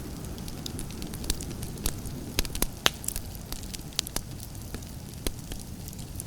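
Campfire burning, with a steady low rumble and irregular sharp crackles and pops, the loudest pop about three seconds in.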